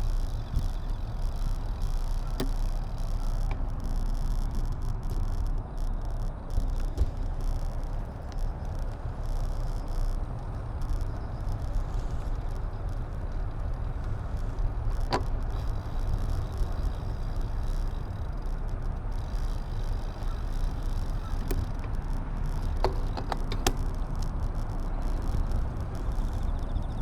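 Steady wind rumble on an action camera's microphone while riding, with tyre and road noise underneath. A sharp click comes about halfway through and a few small rattles near the end.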